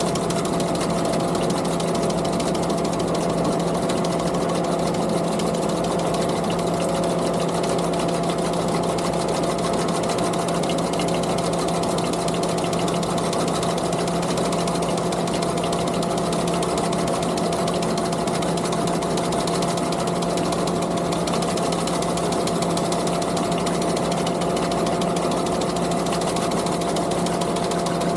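Skid steer engine running steadily, with the fast, even clatter of a sickle bar mower's reciprocating cutter.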